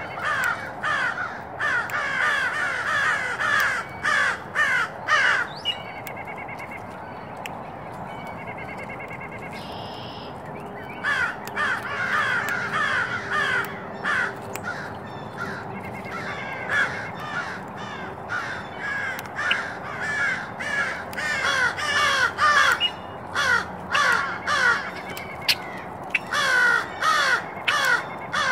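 Many birds calling busily, short harsh calls overlapping several to the second. The calling drops away about five seconds in and starts up again around the middle.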